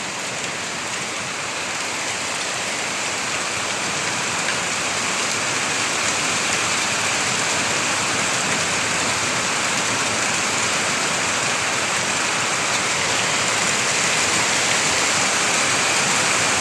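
Heavy rain pouring down in a steady hiss that slowly grows louder.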